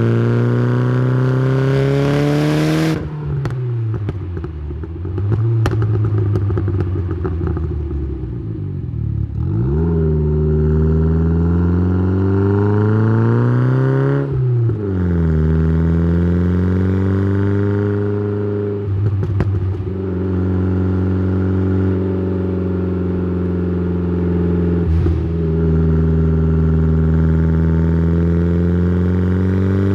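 Tuned Saab 9-3's turbocharged B204 four-cylinder engine heard through its exhaust, pulling up in revs and dropping sharply at each gear change, four times, with steady running in between. There is crackling on the lift-off after the first shift.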